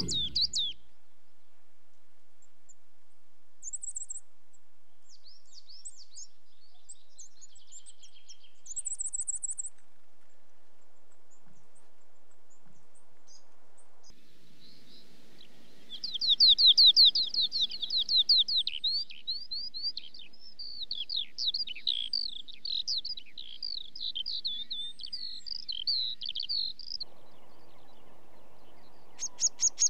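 A songbird singing: a couple of faint, brief high trills first, then about halfway through a long, rapid, varied warbling song that runs for roughly ten seconds before stopping.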